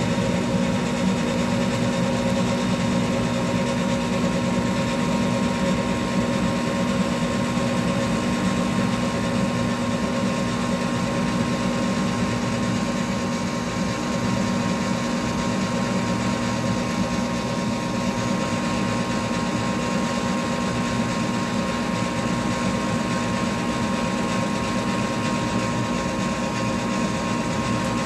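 Goodman gas furnace running steadily: an even mechanical hum with a steady tone, unchanging throughout.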